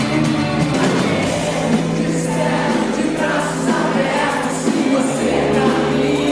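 Live band music with singing over it, a song performed in concert. A steady bass line holds under the voice and shifts to a new note about five seconds in.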